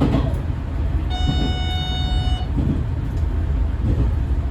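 Diesel railcar running along the line with a steady low rumble, and about a second in one short steady-pitched horn toot lasting just over a second.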